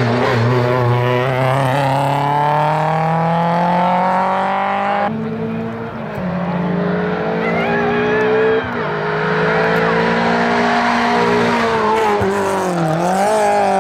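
Renault 19 16V's four-cylinder engine pulling hard at full throttle, rising in pitch through the gears. It shifts up about five seconds in and again about nine seconds in, then briefly lifts and drops in pitch near the end before accelerating again.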